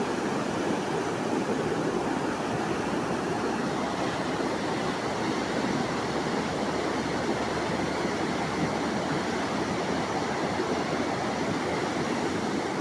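Fast-flowing water rushing steadily, an even unbroken noise.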